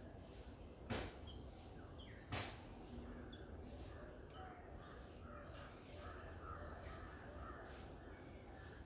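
Faint garden birds: short, high, falling chirps every couple of seconds and a few mid-pitched calls over a steady high insect drone, with two sharp knocks about one and two and a half seconds in.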